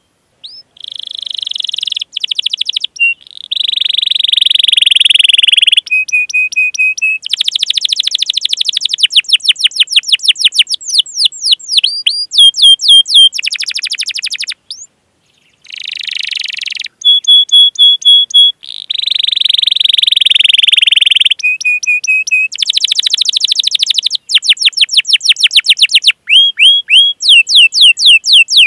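Domestic canary singing a long song. Runs of rapid, high-pitched falling chirps (the 'cuit cuit' calls) alternate with fast rolling trills and short held notes. There is a brief pause about halfway through.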